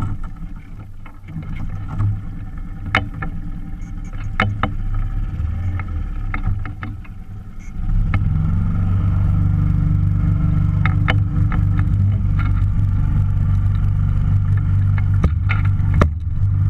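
Small outboard motor running, throttled up about eight seconds in and then holding a steady, louder pitch. Scattered sharp knocks sound over it.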